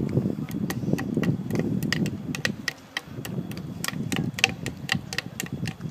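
Improvised percussion on found natural objects: a run of sharp, irregular clicks and taps, a few a second, as a child beats out a rhythm.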